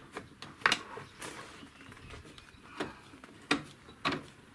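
A few separate sharp metallic clicks and knocks, the loudest about a second in, from a new front lower control arm being worked onto its mounting bolt under the car.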